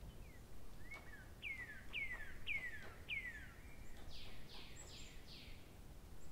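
A bird singing: a string of whistled notes, each sliding downward, about two a second, followed by four higher, harsher falling notes near the end.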